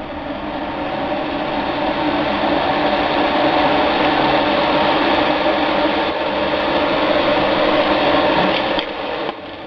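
Hobby spray booth's exhaust fan running after being switched on, its motor spinning up over the first couple of seconds and then holding a steady hum over a rush of air, dropping away near the end.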